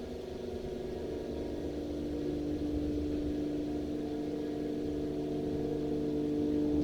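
Christ Auto-Jet C115 car wash machinery running, heard from inside the car: a steady mechanical hum of several held tones over a low rumble, growing slowly louder.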